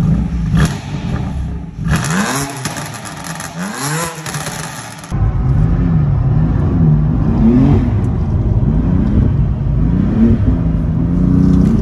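BMW M4 CS twin-turbo straight-six with a stage 2 tune, revved twice near the start. After a cut about five seconds in it is heard from inside the cabin under hard driving, the revs rising and falling again and again.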